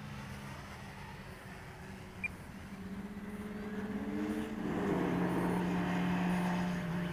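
Electric motor and propeller of a radio-controlled model aircraft droning in flight, growing louder about halfway through, its pitch stepping down.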